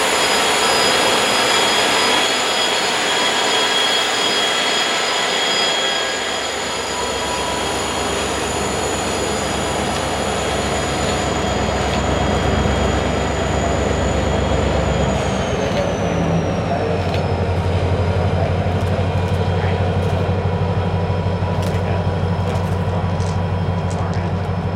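Norfolk Southern diesel freight locomotive and its hopper cars running on the rails, with steady rail and wheel noise. After about two-thirds of the way through, a strong low, pulsing engine drone comes in as the locomotive approaches, with a few sharp clicks near the end.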